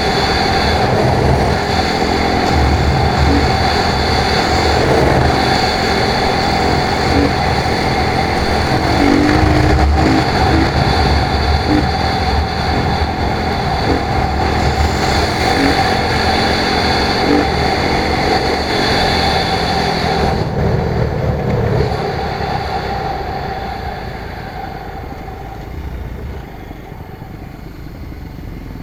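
Off-road motorcycle engine running steadily while riding a trail. The sound dulls and fades down about three-quarters of the way through.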